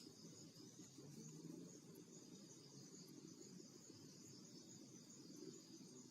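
Faint, steady chorus of insects trilling high, with a low rumble beneath.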